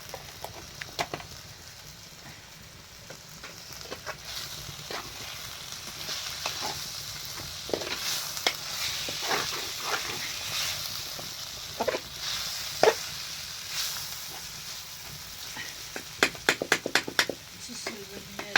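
Food sizzling in a pan while a utensil stirs it, knocking and scraping against the pan now and then, with a quick run of clicks near the end.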